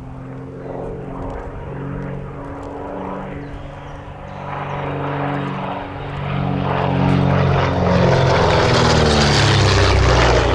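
Twin-engined de Havilland DH.88 Comet racer flying past, its two Gipsy Six piston engines and propellers growing steadily louder as it closes in, then dropping in pitch as it passes near the end.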